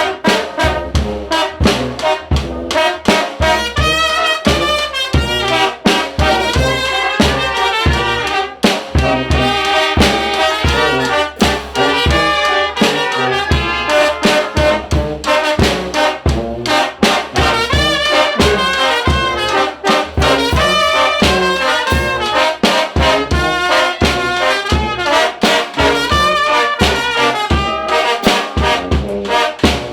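Mexican brass band (banda de viento) playing: trumpets and trombones carrying the melody over a steady low beat.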